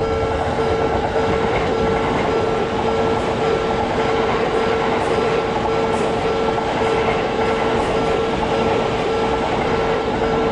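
A train running past with a steady rumble of wheels on rails and some clickety-clack, a constant tone running under the noise.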